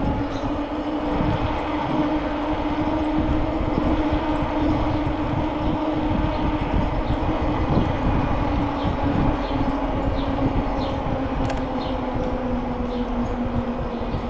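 Bicycle rolling along a park path: a steady tyre hum whose pitch sinks slowly as the bike loses speed, over a rough rumble of the ride and wind on the microphone. A few short high chirps come in over the second half.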